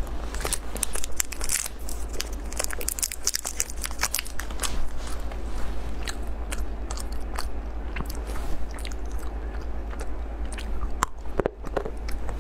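Close-up crunching and chewing of chocolate bars: many sharp, crisp crackles from the bites, thickest in the first couple of seconds. A steady low hum runs underneath.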